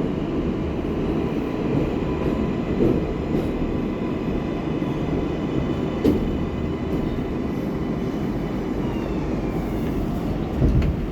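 R188 subway car of the 7 train running through the tunnel: a steady rumble of wheels on rail with a faint high motor whine, one tone sliding down near the end. A sharp click about six seconds in and a low thump near the end.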